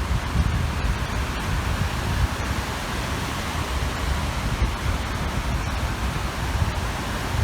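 Small waves washing steadily onto a reservoir shore, with wind gusting on the microphone as an uneven low rumble.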